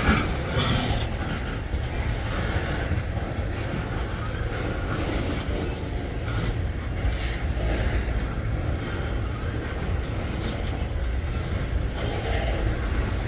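Freight train cars rolling past: a steady low rumble of wheels on rail with a rattly clatter, and a brief louder scrape right at the start.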